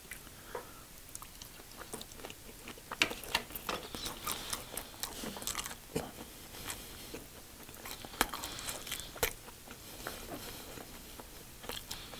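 A person chewing a mouthful of sushi close to the microphone, with irregular sharp mouth clicks.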